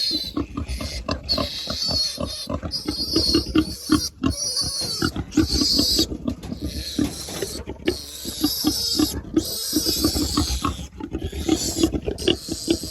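Young piglet screaming, long high squeals one after another with short breaks, its head stuck through wire fencing. Rapid low pig grunts run underneath.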